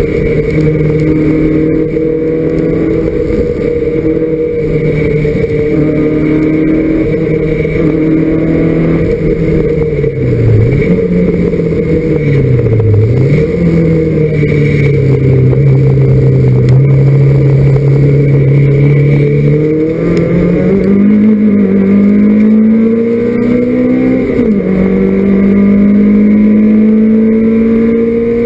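Citroën Saxo race car's four-cylinder petrol engine running hard, heard from inside the stripped cabin. The engine note holds steady, dips briefly twice around the middle, then climbs under acceleration, drops sharply at an upshift in the last few seconds, and climbs again.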